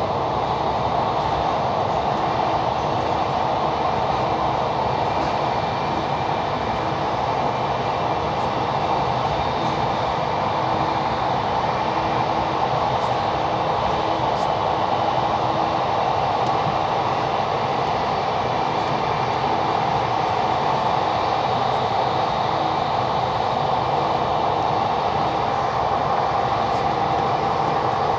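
Passenger train running at a steady speed: a continuous rumble of wheels on rails with a faint steady hum.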